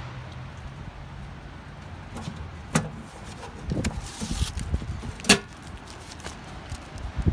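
Gusty storm wind with rustling and low rumble, broken by two sharp knocks, about three seconds in and again about five seconds in.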